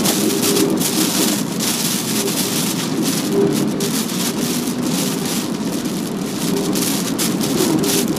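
Heavy typhoon rain and wind beating on a moving car, heard from inside the cabin, surging and easing irregularly over the steady hum of the car on the wet road.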